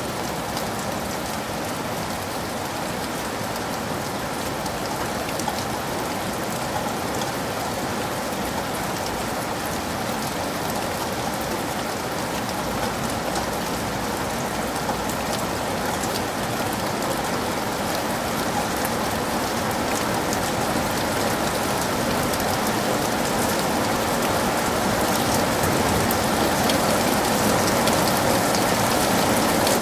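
Heavy rain falling steadily: a dense hiss of drops with fine individual drop ticks, growing slowly louder through the second half.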